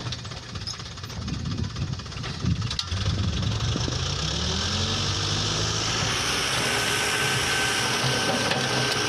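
Toyota Dyna dump truck engine revving up about three seconds in, then running steadily at high revs.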